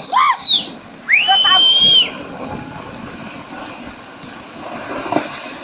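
A high-pitched screaming voice, cutting off after about half a second, then one longer held scream of about a second, followed by a steady rushing noise.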